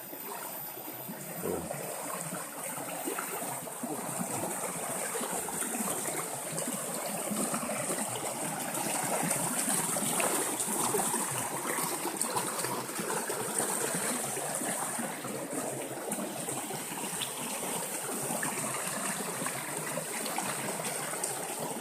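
River water flowing over rocks: a steady rushing and trickling.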